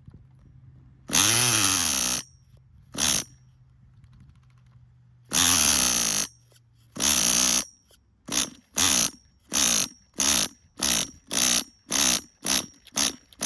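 Nitro glow engine of a Tamiya TGS-R RC car being cranked over without catching: a few longer cranking bursts, then about ten short ones in quick succession, under two a second. It is hard to start, and the owner hears an odd noise from the motor that he fears means a damaged engine.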